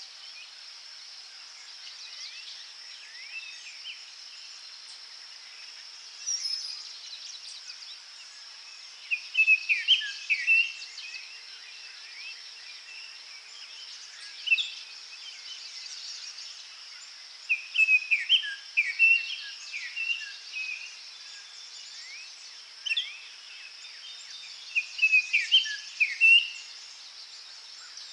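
Forest birds singing: bursts of quick chirping phrases that come back about every eight seconds, with a few single calls in between, over a steady high insect drone.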